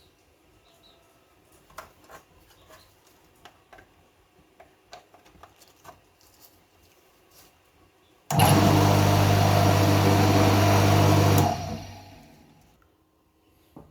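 A portable pressure washer's electric motor is switched on and runs at a steady pitch for about three seconds, then is switched off and winds down. Before it, faint clicks of handling.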